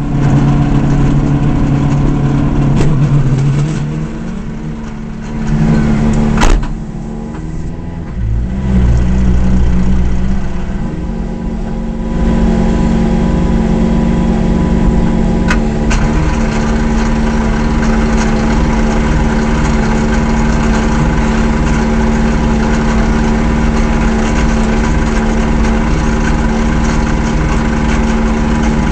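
Subaru Impreza S14 WRC rally car's turbocharged flat-four engine, heard from inside the car. Its speed rises and falls over the first dozen seconds, then it settles into a steady idle, with a few sharp clicks along the way.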